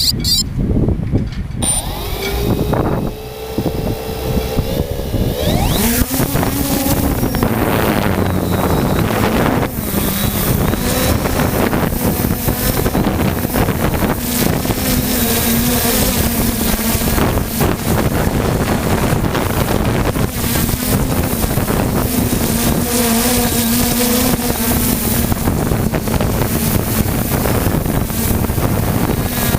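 A short high beep, then the 3DR Solo quadcopter's motors spin up, their pitch rising over a few seconds before settling into a steady hum. Strong gusty wind buffets the microphone throughout.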